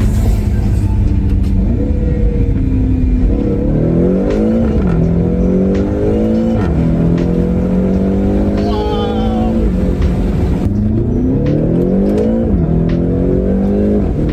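BMW X6 engine accelerating hard, rising in pitch through the gears with a sudden drop at each upshift, four or five times.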